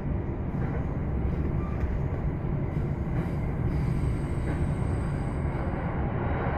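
Commuter train running noise heard inside the passenger car: a steady low rumble of the wheels on the rails and the car body. A faint high whine sounds for a couple of seconds in the middle.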